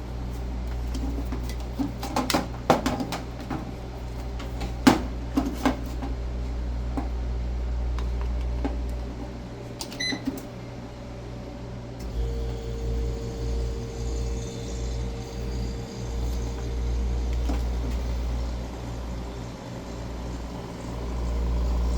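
Samsung CF-1148D commercial freezer being started after a compressor, fan motor and filter drier replacement, with a steady low hum throughout. Handling clicks and knocks come in the first few seconds and a short high tone about ten seconds in. About twelve seconds in a steady whine and an even pulsing set in as the freezer starts running.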